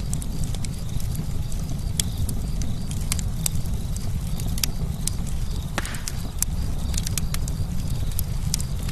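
Campfire crackling: irregular sharp pops and snaps from the burning wood over a steady low rumble of the flames, with a short hiss about six seconds in.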